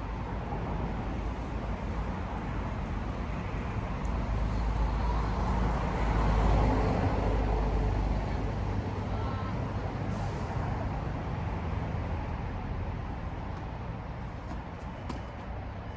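A vehicle passing by: a low, rushing noise that swells slowly, is loudest about six and a half seconds in, then fades away.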